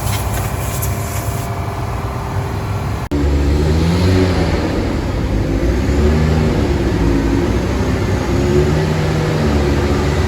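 A car engine running, at first steadily. After a cut about three seconds in it is louder and deeper, its pitch rising and falling as it is revved or driven.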